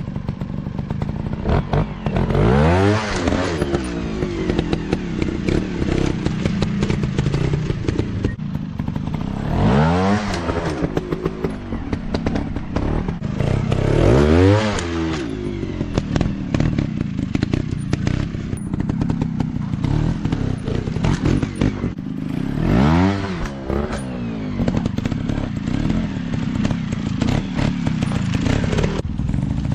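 Dirt bike engine running and revving, its pitch climbing and falling back again and again, with four strong revs and some clatter underneath.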